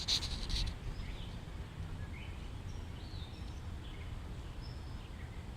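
Outdoor ambience: a steady low rumble with a few faint, scattered bird chirps. There is a short burst of rustling noise right at the start.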